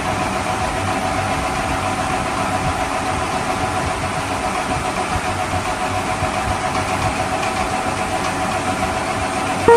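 Toy vehicle's electronic engine sound effect, a steady idling drone that runs evenly at one level.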